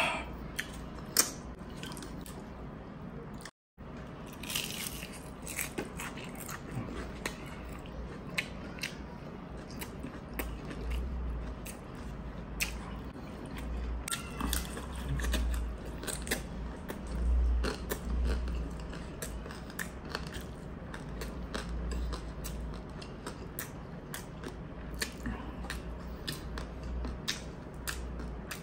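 Close-miked chewing and biting, with small crunches and mouth clicks scattered throughout.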